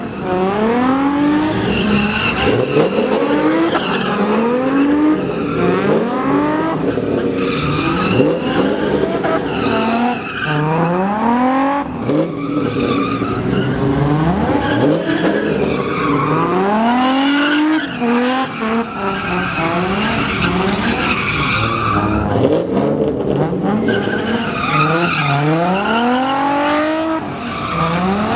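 Pickup truck spinning its tires in a burnout, engine revved up again and again, rising in pitch every couple of seconds over the squeal of the tires.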